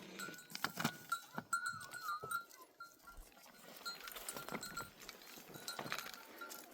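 A flock of sheep and goats on the move, their neck bells clanking irregularly with a ringing tone, and a short wavering bleat about two seconds in.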